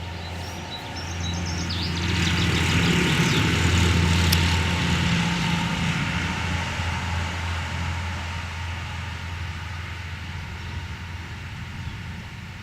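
A tractor driving past, its engine's low steady drone growing louder over the first few seconds and then slowly fading as it moves away.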